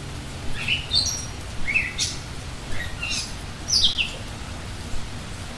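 Small birds chirping: a series of short, quick chirps over about four seconds, over a low steady background hum.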